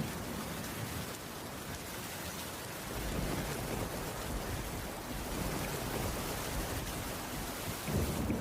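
Heavy rain falling steadily, with a low rumble coming in about three seconds in and swelling again near the end.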